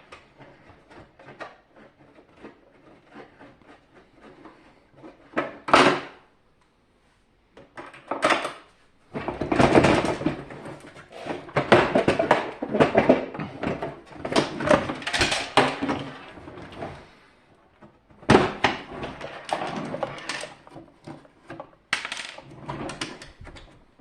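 Clicks, knocks and rattling of plastic parts and tools being handled while a dehumidifier is taken apart. The handling comes in irregular bursts: a few sharp knocks early on, then busier clatter through most of the second half.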